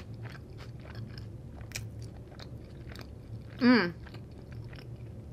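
A person chewing a mouthful of a lox-and-bagel sandwich close to the microphone: a run of many small mouth clicks and crunches. About two-thirds of the way through there is one short hummed 'mm' that falls in pitch.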